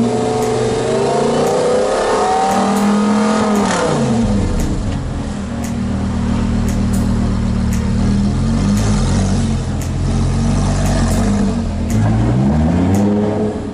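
Lamborghini Gallardo Superleggera's V10 engine running and revving as the car moves at low speed. The pitch falls about four seconds in, holds steady, and rises again near the end.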